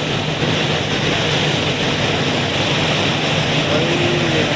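Passenger ferry's engine running steadily, a constant low hum under a loud, even rush of noise.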